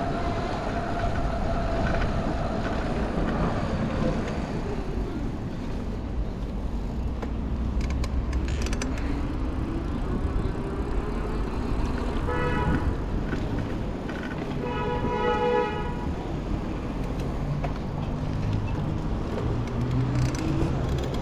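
Downtown street traffic running steadily around a bicycle, with a vehicle horn honking twice: a short toot about twelve seconds in and a longer one about three seconds later.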